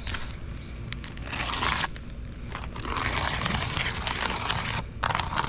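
Gritty scraping and crunching on roof shingles, coming in several stretches of a second or two each.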